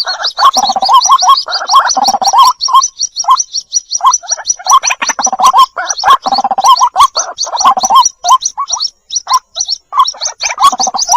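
White-breasted waterhen chicks calling for the parent bird: a fast run of high, thin peeps over bouts of repeated lower, throaty calls. The lower calls break off briefly about three to four seconds in and again near nine seconds.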